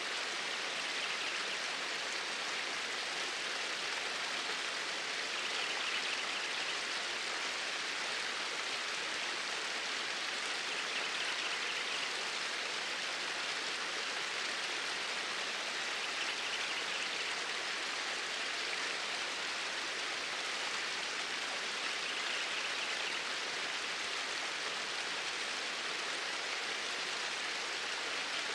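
Steady rushing of flowing water, a continuous hiss with faint swells every five or six seconds.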